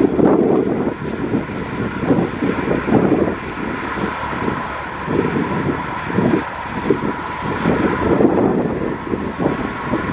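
Diesel engine of heavy earthmoving machinery running under load, surging unevenly, with a faint steady whine over it.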